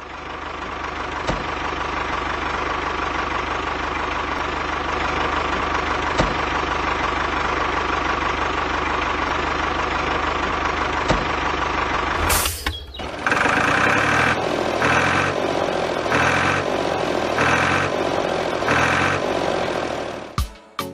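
Vehicle engine running steadily. About halfway through it breaks off, then it pulses rhythmically a little over a second apart.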